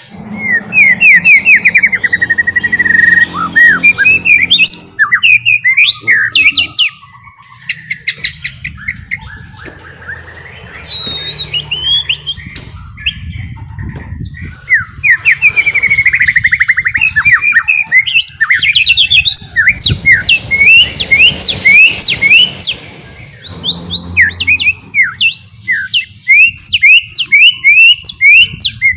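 White-rumped shama (murai batu) singing its fast 'ngeriwik' twitter: loud, rapid runs of sharp, slurred chirps and trilled notes, broken by brief pauses, over a low background hum.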